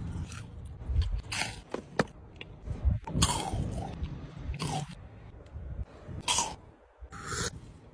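Close-up eating sounds of someone biting and chewing crunchy chocolate-coated sweets: a run of sharp, irregular crunches about a second apart.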